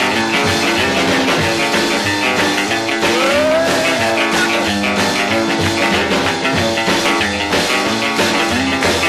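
Instrumental stretch of a raw early-1960s rock and roll record: electric guitar, bass and drums on a steady driving beat, with a sound sliding up in pitch about three seconds in.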